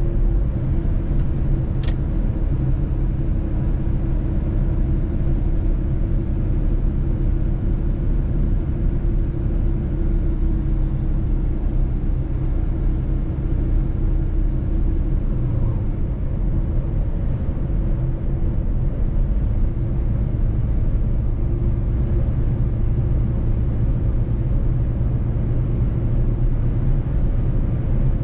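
Mercedes-Benz truck on the move: a steady low engine and road rumble with a faint constant hum. There is one short click about two seconds in.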